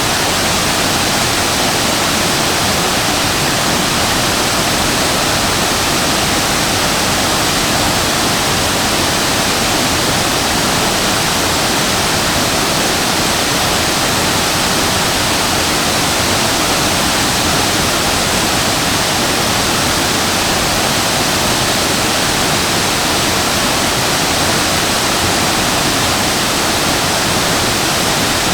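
Waterfall: water plunging and splashing in a steady, loud rush that stays unchanged throughout.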